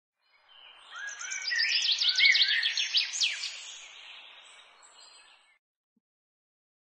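Birdsong: many quick chirps and whistles, mostly falling in pitch, over a soft steady hiss. It fades in just after the start, is loudest around two to three seconds in, and fades out by about five and a half seconds.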